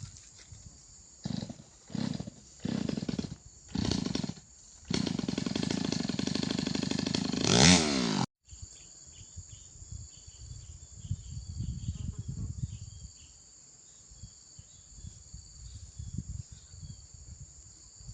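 Two-stroke chainsaw blipped in four short bursts, then held at high revs for about three seconds with its pitch swinging up near the end, before cutting off abruptly. After that, a steady high insect buzz of crickets or cicadas with faint low rumbling underneath.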